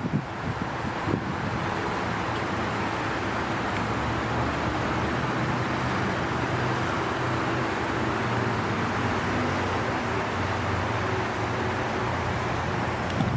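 Steady road noise of a car being driven, an even rush with a low, steady engine hum underneath.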